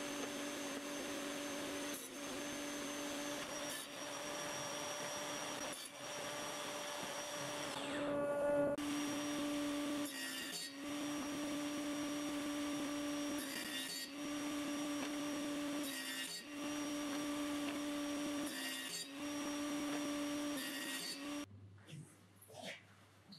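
Woodworking power tools running with a steady motor hum as alder boards are machined, heard in short edited snippets that break off every couple of seconds. Near the end the machine noise stops, leaving quieter clicks and knocks.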